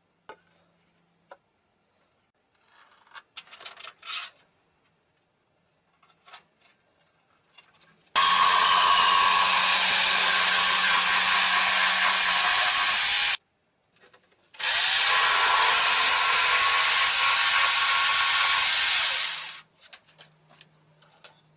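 A jigsaw mounted in a jigsaw table cutting wood in two runs of about five seconds each, separated by a short pause. Light handling knocks and clicks come before and after the cuts.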